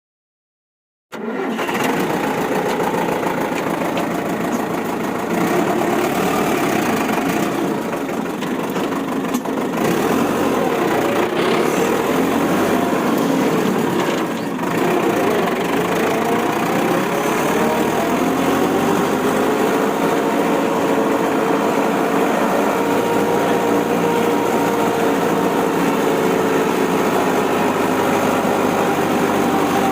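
Vehicle engine running steadily, starting after about a second of silence, its pitch dipping about halfway through and then rising as the revs go up.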